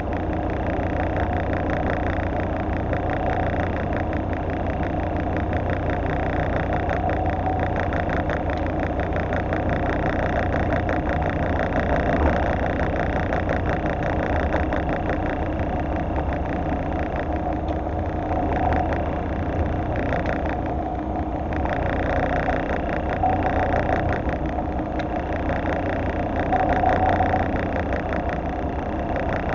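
Fishing boat's engine running steadily at idle, a continuous drone.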